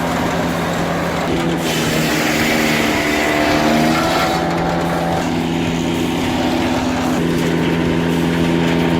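Engine of a machine running steadily, its pitch rising slightly a couple of seconds in and shifting again about five seconds in.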